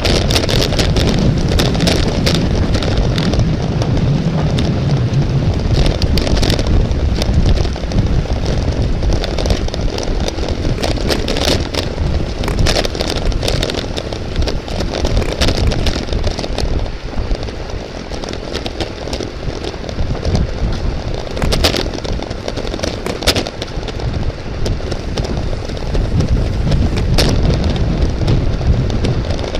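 Steady wind and road rumble on a moving camera's microphone during a bicycle race, with frequent sharp clicks and rattles scattered through it.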